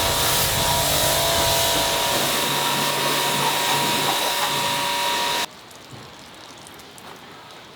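A loud motorized machine running steadily with a hissing rush and a steady whine, cutting off abruptly about five and a half seconds in.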